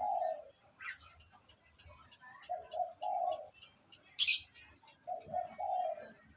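A dove cooing in short phrases of two or three low notes, repeated about every two and a half seconds. A sharp, high chirp from a bird comes about four seconds in.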